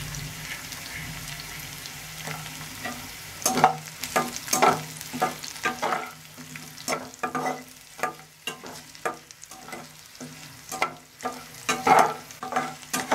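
Cashews, urad dal, green chilies and ginger frying in ghee in a nonstick kadai, with a steady sizzle. From about three and a half seconds in, a steel spatula stirs the pan with quick, irregular scrapes and taps.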